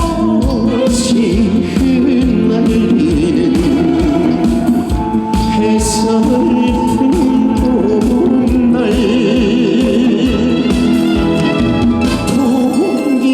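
Live Korean trot song: a man singing with a wavering vibrato over an amplified backing band with a steady beat, in a reverberant outdoor-stage mix.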